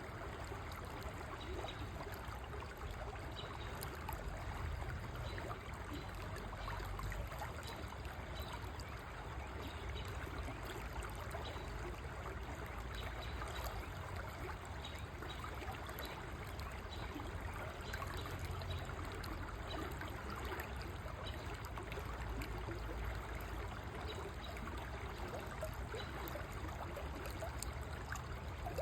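River water flowing steadily, an even rushing and trickling with a low rumble underneath.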